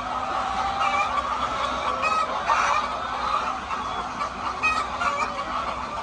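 A flock of many chickens clucking and calling at once: a dense, steady chatter of short overlapping calls.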